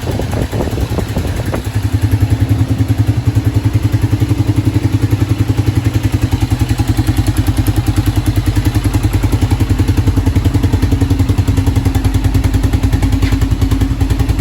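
Kawasaki Brute Force 650 ATV's V-twin engine clattering unevenly at first, then settling into steady running with a fast, even pulse about two seconds in. The owner says the engine has a pretty bad knock.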